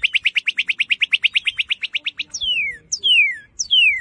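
Northern cardinal singing, loud and clear. It opens with a fast run of repeated chip notes, about ten a second, then gives three loud downslurred whistles, each falling steeply in pitch, about two-thirds of a second apart.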